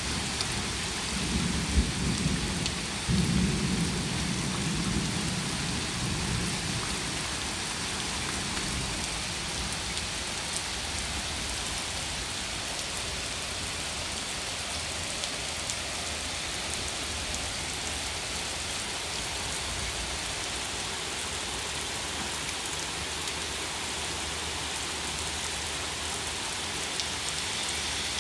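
Heavy rain pouring steadily onto pavement, grass and trees, with a low roll of thunder rumbling through the first several seconds and then dying away.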